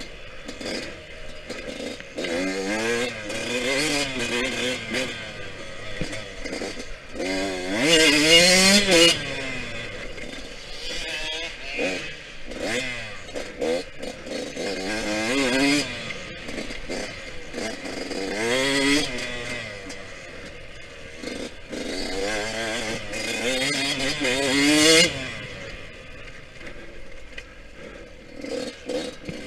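Yamaha YZ125X 125 cc two-stroke dirt bike engine revving up and down over and over as it is ridden around a dirt track. It is loudest about eight seconds in and again near the end.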